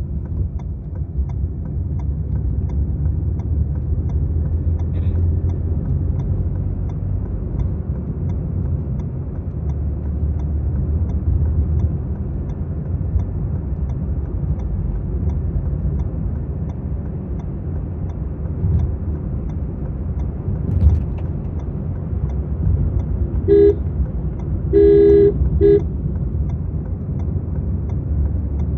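Maruti Suzuki Swift VXi being driven, with a steady low engine and road rumble. A car horn honks three times near the end, short, longer, short.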